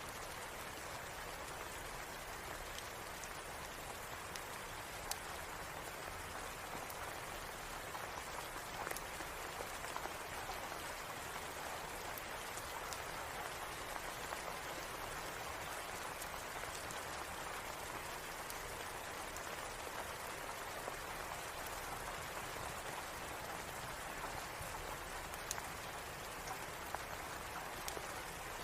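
Steady rain hiss, with a few scattered sharp pops from a crackling fireplace.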